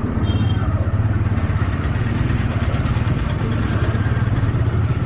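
Motorcycle engine running steadily while riding, with a rapid even pulse and road noise. A brief high beep sounds about a third of a second in.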